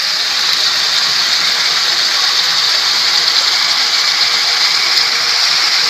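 Chopped potatoes and sliced onions sizzling in hot oil in a kadai: a steady frying hiss.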